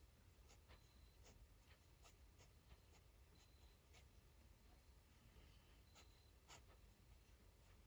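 Faint, irregular scratches and ticks of a drawing pen stroking across paper, with a few brief thin squeaks of the nib.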